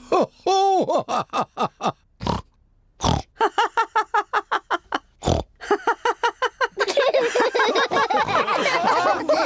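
Cartoon pig characters laughing with pig snorts: a run of short snorting laughs, then several voices laughing and snorting together.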